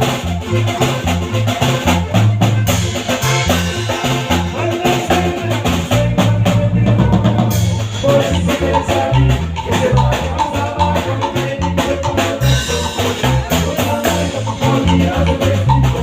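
Norteño band playing an instrumental passage, with drum kit, a pulsing bass line and melody instruments and no singing.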